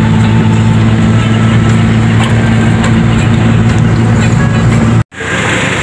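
Daihatsu Charade engine and road noise heard from inside the moving car, a steady loud drone. It cuts off abruptly about five seconds in, and a quieter engine hum follows.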